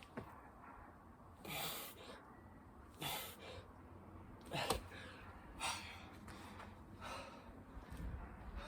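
A man breathing hard from exertion: about five loud, forceful breaths, one every second or so, in a small room.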